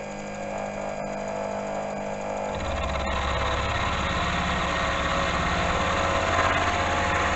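Milling machine running, a steady mechanical hum with a couple of sharp clicks; about two and a half seconds in it grows louder and heavier as the machine takes up more work.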